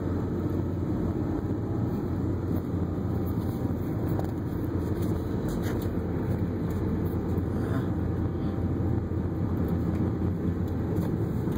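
Car cabin noise while driving on a snowy road: a steady low drone of engine and tyres.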